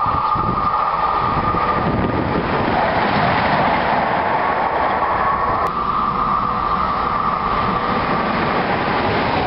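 Passenger train approaching: a steady rumble with a high, held tone over it. The tone fades a couple of seconds in and returns about halfway through.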